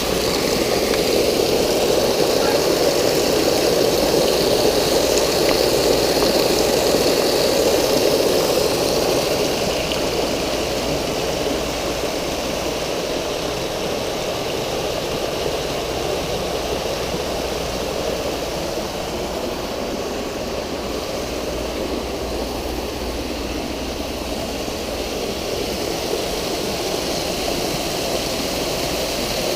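Steady rush of water from pool water features, a rain curtain and water bowls pouring and splashing into the pool, a little louder for the first nine seconds or so, then even.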